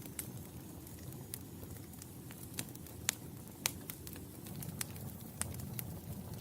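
Fireplace fire crackling: irregular sharp pops and snaps over a low, steady rumble of flames, with two louder pops about three seconds in, half a second apart.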